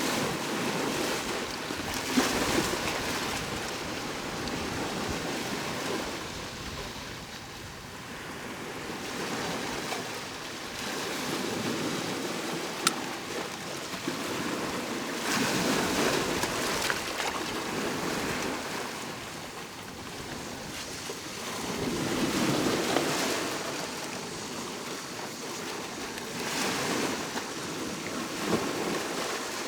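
Sea waves washing onto the shore, each surge swelling and falling away every five to seven seconds, with a few brief sharp clicks.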